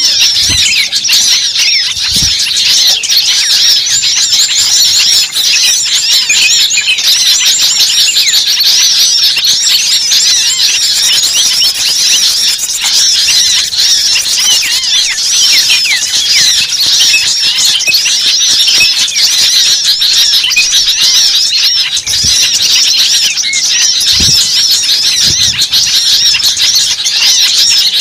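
A bird-lure recording of a dense, noisy chorus of small songbirds: many rapid, high-pitched chirps and squeaky trills overlapping without pause, the agitated mobbing-type calling used to draw birds in for trapping. A few soft low thumps sound near the start and a few seconds before the end.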